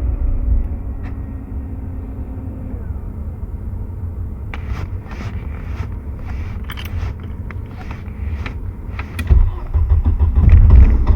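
Car being cranked and coaxed in freezing cold, hard to start. A steady low engine rumble runs under light clicks and rattles at the key and pedal from about four seconds in, and near the end the rumble swells in uneven surges.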